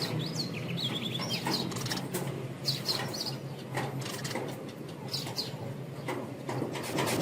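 Small seed-eating birds chirping in short high bursts, with scattered quick taps and flutters, over a steady low hum.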